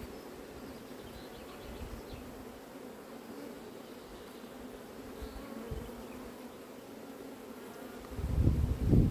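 A mass of honey bees buzzing around an open hive during an inspection: a steady, even hum. Near the end there is a louder, low rumble lasting about a second.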